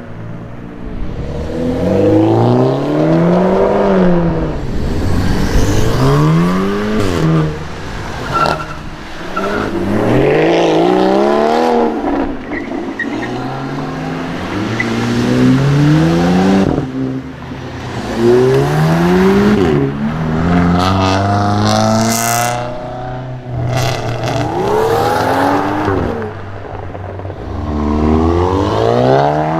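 A string of sports cars with aftermarket exhausts accelerating hard one after another. Each engine note climbs and then drops, about a dozen times in a row.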